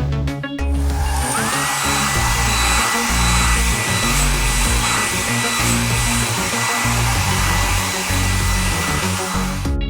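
Electric air blower, a drying sound effect, starts up about a second in: a steady, loud hiss with a whine that rises and then holds. It runs for about nine seconds over light background music and cuts off just before the end.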